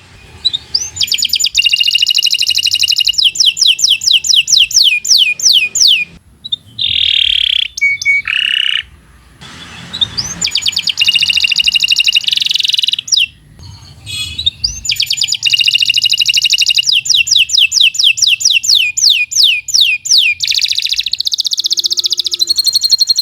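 Domestic canary singing a long, loud song of rapid trills, each a fast run of repeated sweeping notes, with two brief breaks where it changes to rougher, lower rolls before the quick trills resume.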